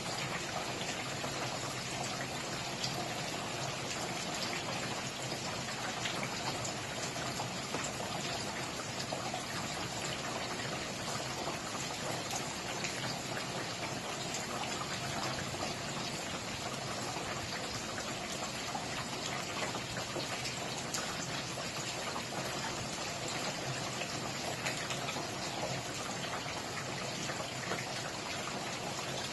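Steady rain falling, an even hiss dotted with the small ticks of individual drops on a surface.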